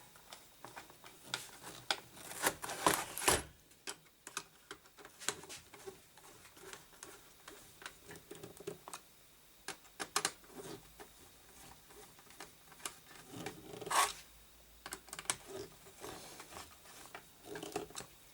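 Irregular light clicks and taps of small hard parts being handled on a workbench, with a louder cluster about three seconds in and a single sharper knock about fourteen seconds in.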